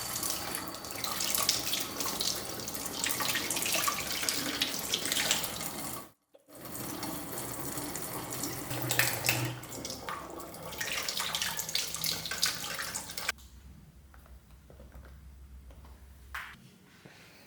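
Water running from a tap into a sink, with a short break about six seconds in, then shut off about thirteen seconds in. A few faint clicks follow.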